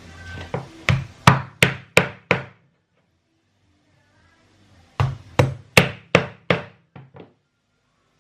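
A mallet whacking the back of a knife to drive it through a fish's hard bones: two runs of quick, sharp strikes, about three a second, with a pause of about two and a half seconds between them.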